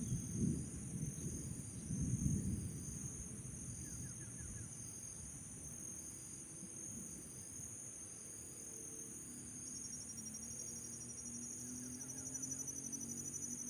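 Crickets and other insects trilling in a steady high chorus, with a faster pulsing trill joining about ten seconds in. Low rumbling knocks sound in the first couple of seconds.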